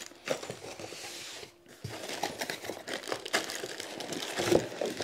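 Packaging being handled: crinkling and rustling of wrapping with cardboard scraping and a few light knocks as parts are lifted out of the box.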